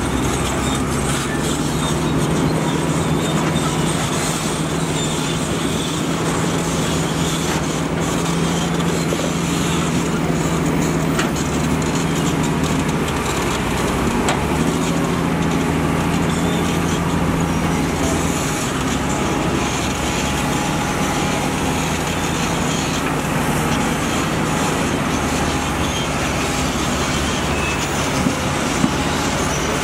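Diesel engine of heavy earthmoving machinery running steadily with a low drone, and two short knocks near the end.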